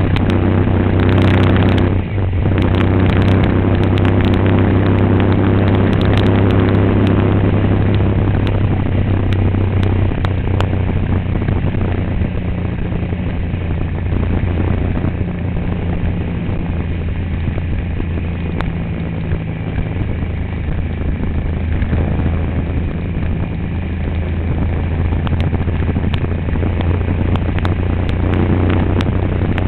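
Road vehicle engine running steadily with a low drone, over road and wind noise, while driving. A brief dip comes about two seconds in.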